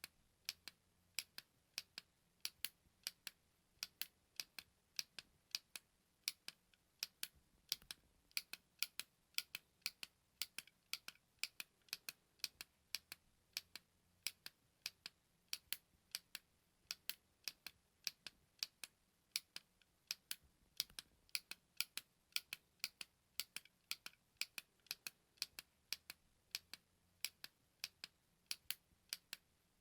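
A button clicked over and over: a steady run of short, sharp clicks, about two to three a second, some in quick pairs.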